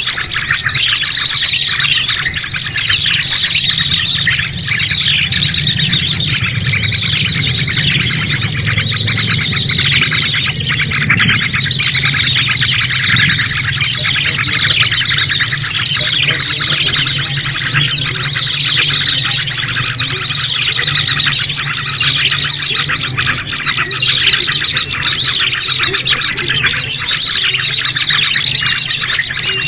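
A dense, continuous chorus of small birds chirping rapidly and busily, over a steady low hum.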